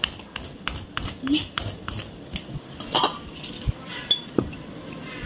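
Irregular metallic clicks and clinks of a worn roller wheel bearing being handled and wiped for cleaning, with a dozen or so sharp ticks at uneven intervals.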